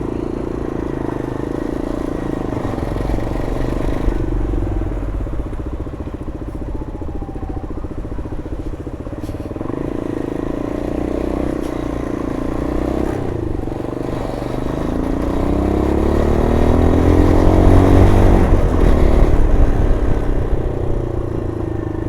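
MGB ATX 125cc adventure motorcycle engine running under way at a steady pace. About two-thirds of the way in, the revs rise and it gets louder as the bike accelerates, then it eases off again near the end.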